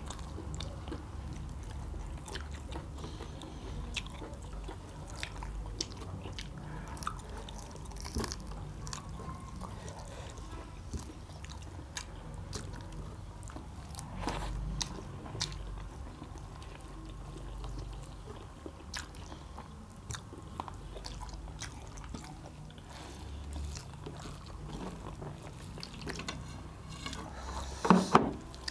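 Close-miked chewing and biting of roast quail meat with rice, with many small mouth clicks and smacks, and a brief louder sound near the end.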